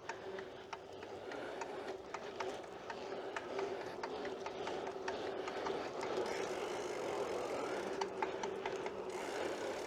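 BMX bike being ridden over a rough trail: a steady rolling noise with a constant hum and many scattered clicks and rattles from the bike.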